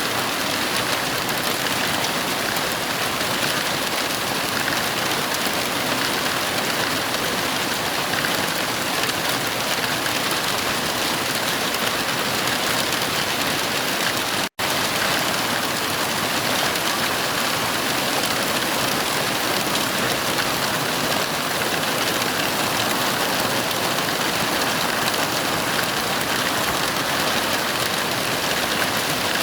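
Heavy rain falling in a steady, even hiss, with no thunderclaps. The sound cuts out for an instant about halfway, then carries on unchanged.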